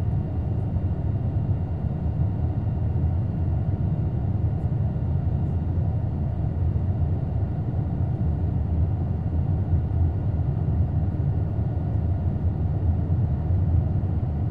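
Steady low cabin rumble of an Airbus A220 under way, from its Pratt & Whitney PW1500G geared turbofan engines and the airflow, with a few faint steady whining tones above it.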